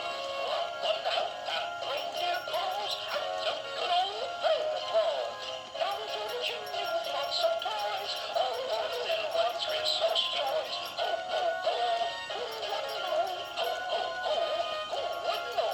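Gemmy animated Pooh and Tigger train toy playing a song through its small speaker, with a synthesized-sounding voice singing the melody.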